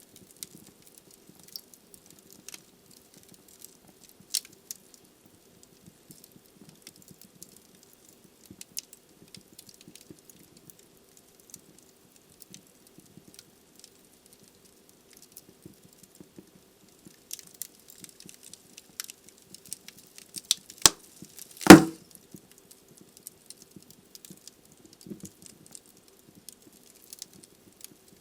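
Wood fire burning in a fireplace, crackling with sparse small pops over a faint steady low hum, and one loud sharp pop about three-quarters of the way through.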